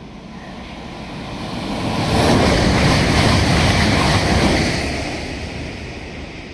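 Five-car Class 222 Meridian diesel-electric multiple unit passing through at its full 125 mph: a rushing noise that swells quickly, stays loud for about two and a half seconds while the train goes by, then dies away.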